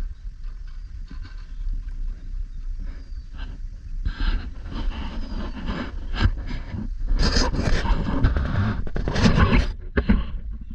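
Wind rumbling on the microphone, with bursts of rushing, scraping noise from about four seconds in that stop shortly before the end.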